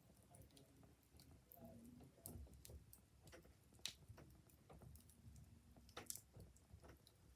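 Wood fire crackling quietly with irregular pops and snaps, the sharpest about four seconds in and again about six seconds in.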